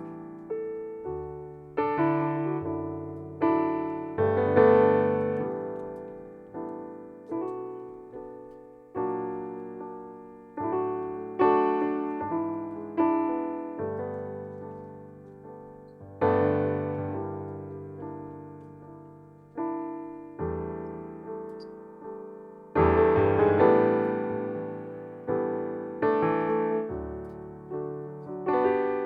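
Solo piano playing a slow piece of background music: chords struck every second or two, each one ringing out and fading before the next.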